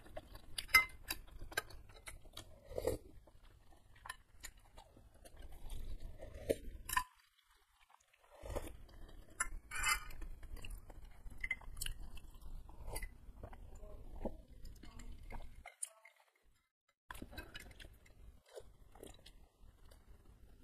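Close-miked chewing of a mouthful of food, with crisp, crunchy bites and the clink and scrape of a spoon and fork in a bowl of soup. Irregular clicks and crackles come in clusters, with two brief pauses.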